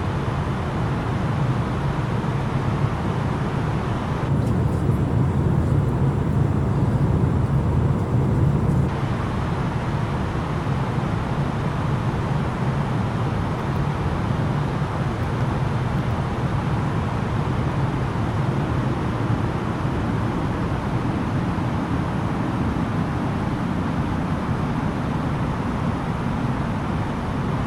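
Airbus A330-900neo cabin noise in descent: a steady roar of airflow and engine, heaviest in a low hum. The higher hiss dulls for a few seconds about four seconds in.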